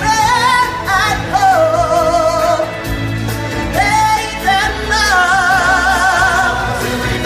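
Live stage-show singers with band accompaniment, holding long notes with vibrato and sliding through vocal runs.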